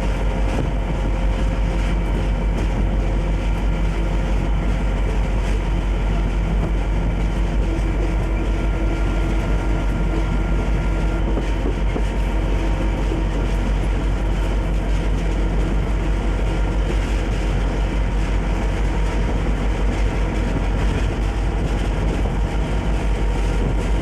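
Conrail diesel freight locomotive running steadily under way: a loud, even engine drone with a steady hum, mixed with the running noise of the train on the rails.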